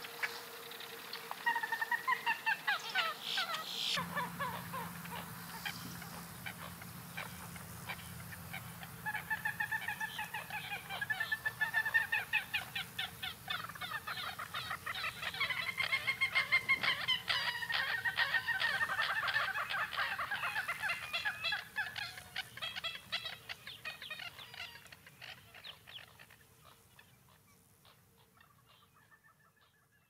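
Birds calling in long runs of rapid, repeated notes, the calls dying away near the end.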